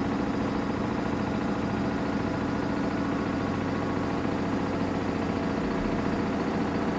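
Samsung Eco Bubble washing machine running steadily during a 20 °C cotton wash: an even, continuous motor hum.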